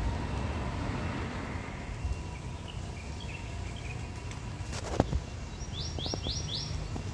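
A bird calling outdoors: softer chirps in the middle, then a quick run of four high notes near the end, over steady low background rumble. A single sharp knock comes about five seconds in.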